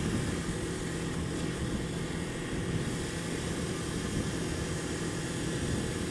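Kawasaki Ninja 250 motorcycle engine running steadily, a constant drone with no change in pitch.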